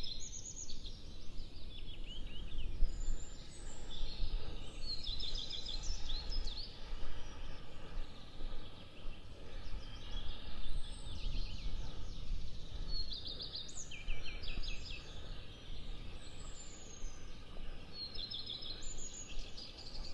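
Small songbirds singing outdoors: short, rapid trilled phrases repeated every few seconds, several overlapping, over a steady low rumble.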